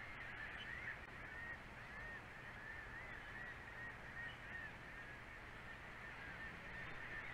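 A bird calling: a long run of short, high, rising-and-falling chirped notes, over a faint steady low hum.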